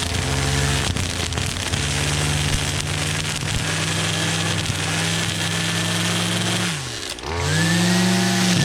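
Gas-powered string trimmer (weed eater) engine running at high throttle, easing off about seven seconds in and revving straight back up.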